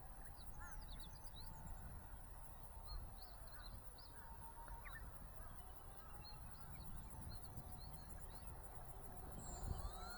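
Distant whine of a small electric RC model plane, its brushless motor and propeller drifting slowly in pitch as it flies, rising in pitch near the end. Wind rumbles on the microphone, with a few short high chirps.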